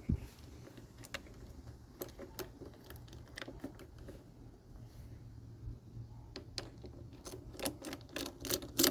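Small metallic clicks and clinks of a socket wrench and bolts being worked while a carburetor is mounted on a small engine, with a quicker run of louder clicks near the end, over a faint low hum.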